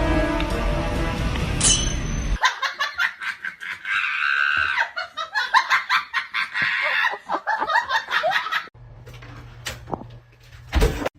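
Background music, then a cut to several seconds of rapid, pulsing laughter, then a quieter stretch ending in a sudden loud hit.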